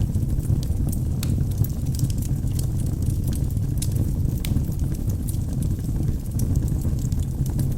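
Wood logs burning in a fireplace: a steady low rush from the flames with frequent, irregular sharp crackles and pops.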